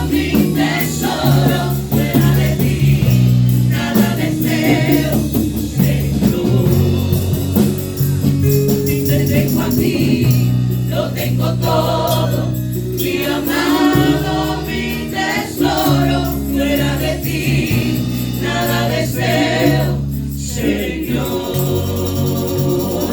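Live gospel praise-and-worship music: a group of voices singing over a band with held bass notes.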